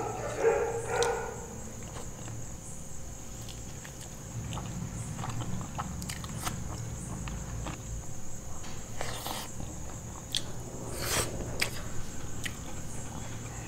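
Close-up mouth sounds of eating with the hands: wet chewing, lip smacks and scattered clicks from soft saucy food, with a short hummed vocal sound in the first second. A faint steady high whine runs underneath.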